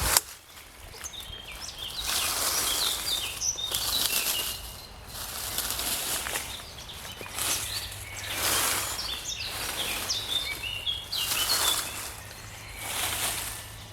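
Songbirds singing short, quick chirping phrases in spring, over swells of rushing background noise that rise and fall every couple of seconds. A sharp click comes right at the start.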